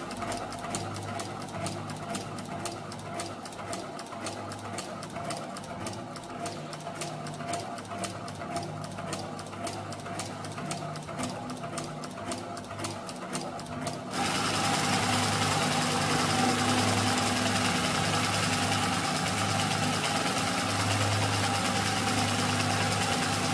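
Handmade PVC boxer engine model running with a rapid, even clicking clatter over a low hum. About fourteen seconds in it suddenly gets louder and the separate clicks merge into a steady whir, as if it speeds up.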